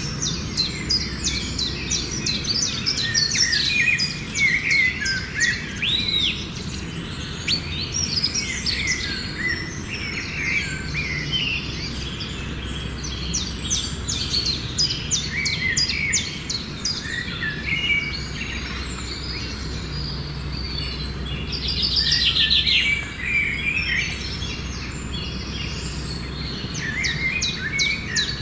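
Several birds chirping and calling, with many short chirps and quick rapid trills, over a steady low background hum.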